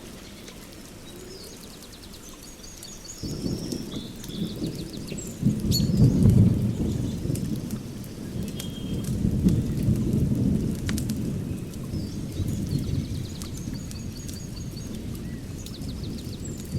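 Ambient nature bed: sharp crackling clicks and high bird chirps, under a low rolling rumble that swells about three seconds in, is loudest around six seconds and then slowly eases off.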